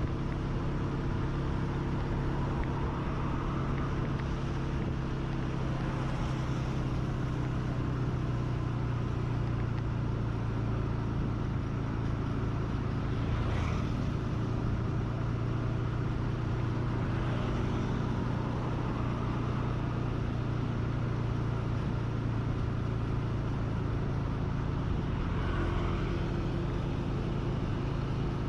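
Vehicle engine running at a steady speed on the move, over road and wind noise, with a brief sharper sound about halfway through.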